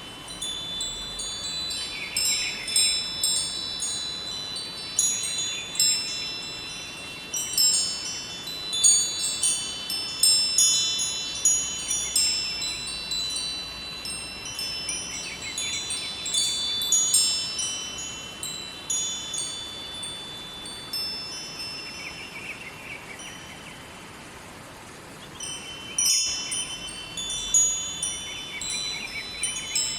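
Wind chimes ringing in irregular clusters of high, overlapping tones that ring on, over a faint steady rush of river water. The chiming thins out for a few seconds a little past the middle, then picks up again.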